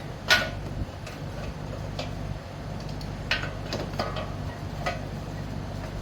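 Scattered sharp metallic clinks and knocks of tools and metal parts being handled as a scooter's exhaust is worked loose and pulled off. The loudest clink comes just after the start, with about six lighter ones following at uneven gaps.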